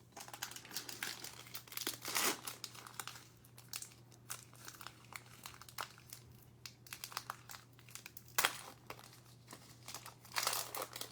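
Plastic trading card pack wrapper being torn open and crinkled in the hands, with dense crackling rustles and a few louder rips, about 2 seconds in and near the end.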